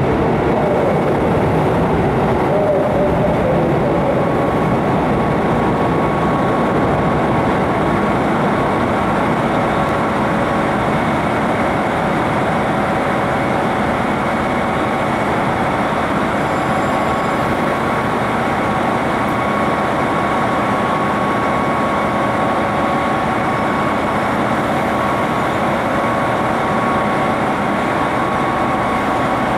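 Steady rumble of trains standing at a station platform with their engines and equipment running, with a faint held tone over it.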